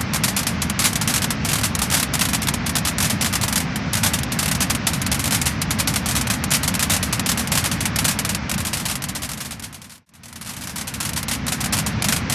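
Wood fire crackling and popping, a dense run of small sharp snaps over a steady hiss. About ten seconds in it fades out to a moment of silence and fades back up.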